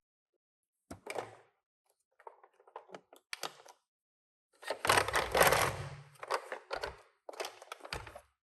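Handling sounds of die-cast toy cars and their packaging: scattered clicks and knocks, then a louder stretch of clatter and scraping with a low thump a little past the middle, and a few more knocks near the end.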